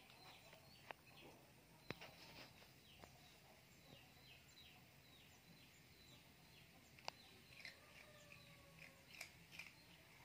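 Near silence with faint bird chirps: short falling notes repeated, and a few sharp clicks.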